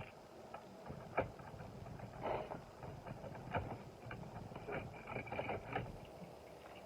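Faint, irregular clicks and clatters of small die-cast toy cars being handled and taken out of a toy car carrying case.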